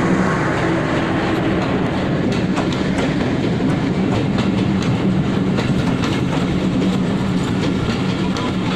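Bangladesh Railway passenger coaches rolling past close by, the wheels clicking over the rail joints over a steady low rumble and hum.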